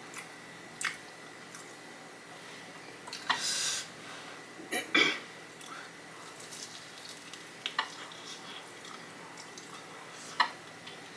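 Close-miked eating sounds of Flamin' Hot Cheeto-coated fried chicken being chewed: scattered wet chewing and mouth smacks, with the loudest, longer crunchy-sounding burst about three and a half seconds in.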